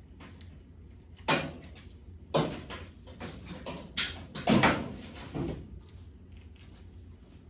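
A handful of separate knocks and clatters, the loudest about four and a half seconds in, over a low steady hum.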